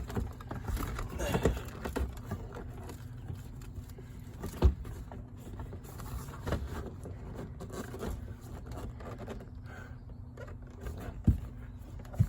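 Scattered knocks and rustling of hands working at the carpet and trim inside a stripped car's rear cargo area, over a steady low hum.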